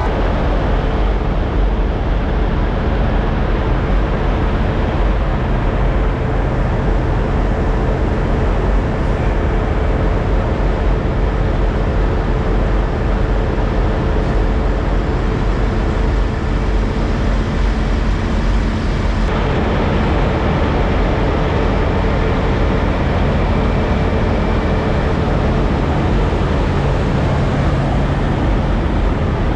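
Diesel engines of parked semi trucks idling: a steady, even rumble with a faint constant hum.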